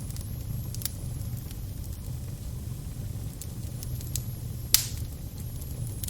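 Crackling fire burning with a steady low rumble and scattered sharp crackles, the loudest pop coming late.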